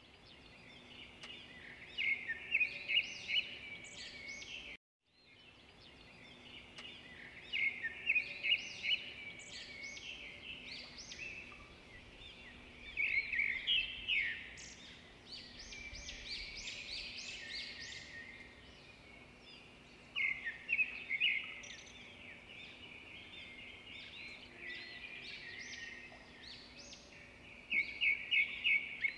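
Small birds chirping in short clusters of rapid high notes, coming every five to seven seconds, over a faint steady hum.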